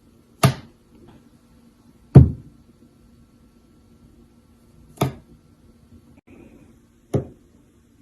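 Four sharp knocks, irregularly spaced, the second the loudest.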